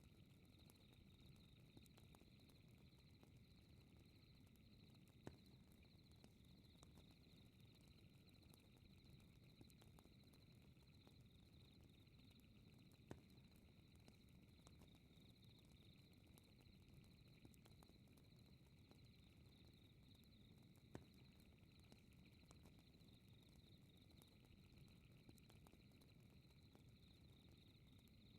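Faint fireplace crackling: a soft low rumble of flames with scattered small crackles and a sharper pop about every eight seconds. Over it runs a steady, fluttering high-pitched chirring.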